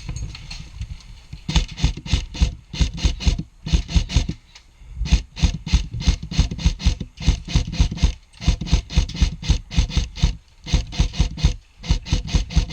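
Airsoft high-capacity magazine being wound by its thumb wheel: runs of rapid ratcheting clicks, starting about a second and a half in and broken by short pauses as the wheel is turned again and again.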